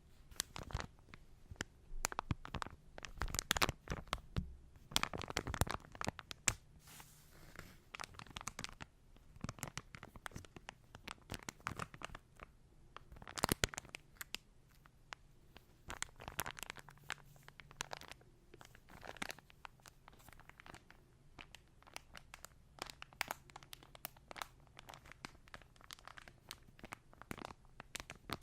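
Hands in latex gloves rubbing and crinkling the rubber: an irregular stream of crinkly rustles and scratches.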